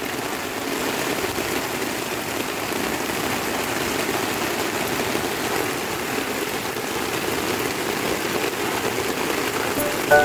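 Steady rain falling, an even hiss of drops on the ground and surfaces with no let-up.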